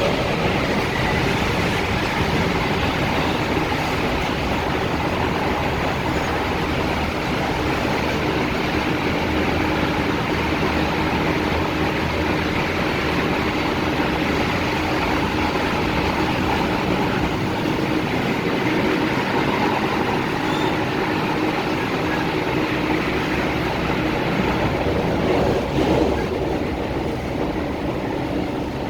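Tung Chung Line K-Train (Hyundai Rotem electric multiple unit) running steadily between stations, heard from on board: an even rush of wheels on track with a faint steady hum beneath it.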